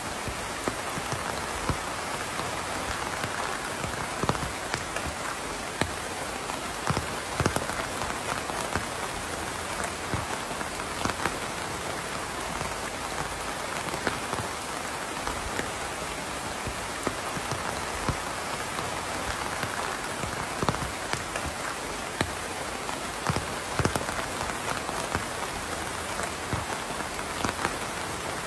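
Steady rain falling, a constant hiss with louder individual drops ticking at irregular moments.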